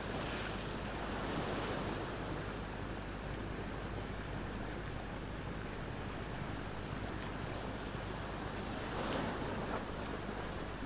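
Ocean waves washing onto the shore in a steady rush, swelling about a second in and again near the end, with a few faint crackles from a wood campfire.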